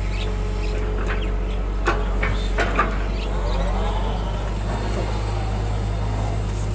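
Excavator working: its diesel engine runs steadily, with a few sharp metallic knocks about two to three seconds in and a faint whine that rises and falls.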